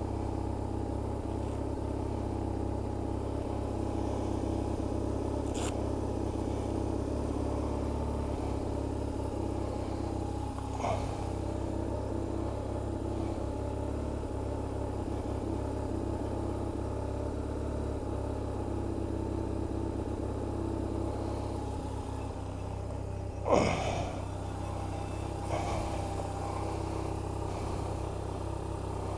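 BMW R1150RT's boxer-twin engine running steadily with a low rumble. About two thirds of the way through, a brief sharp sound falls quickly in pitch.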